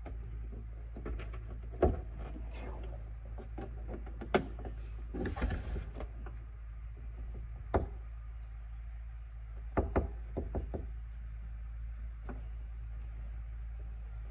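Irregular plastic clicks and knocks as a clipped-on plastic car trim piece is pried and worked at, with a cluster of taps about five seconds in and another about ten seconds in. A steady low hum runs underneath.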